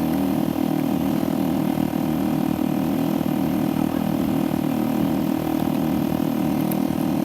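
ATV engine running steadily while riding, a continuous low engine note with no big changes in speed.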